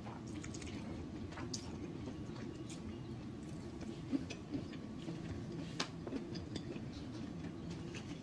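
Close-miked eating: scattered wet mouth clicks and smacks of chewing, with a couple of sharper clicks, over a steady low hum.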